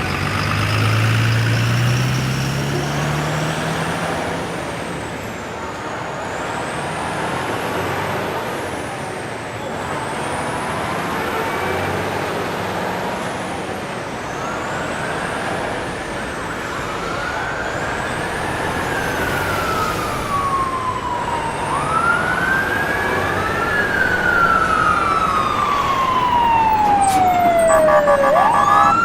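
Emergency-vehicle siren wailing in slow rising and falling sweeps, faint at first and getting louder over the second half, over a steady hum of traffic. A vehicle engine revs up about a second in.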